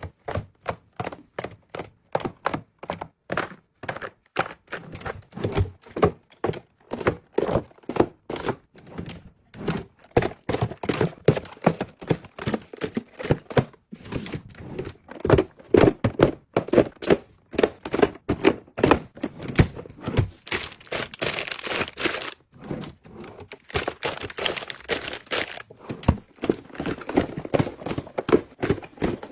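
Close-up handling noises: a steady stream of small taps, knocks and crinkles, with longer hissing rustles about twenty and twenty-four seconds in.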